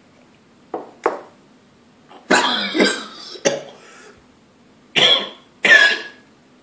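A man coughing in a series of sudden fits: two short coughs, a longer spluttering fit about two seconds in, then three more coughs, as he chokes down a spoonful of baking soda paste mixed with liquid chlorophyll.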